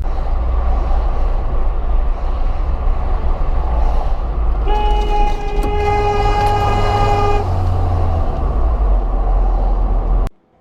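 A vehicle engine runs with a steady low rumble. About halfway through, a horn sounds one blast of roughly three seconds, a single steady pitched tone.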